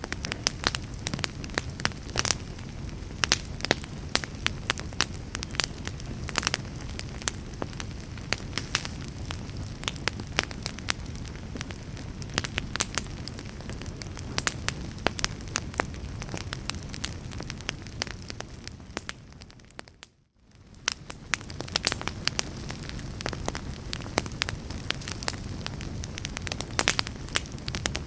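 Real log fire burning in a fireplace: dense crackling with frequent sharp snaps over a low, steady rush of flame. About twenty seconds in, the sound fades briefly to near silence, then fades back up to the same crackling.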